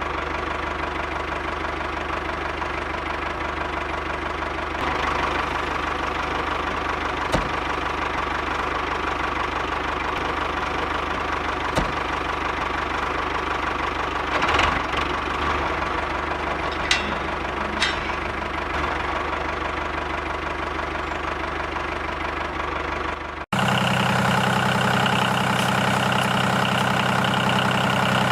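An engine running steadily, with a few sharp clicks along the way. About 23 seconds in it cuts abruptly to a louder engine sound with a different pitch.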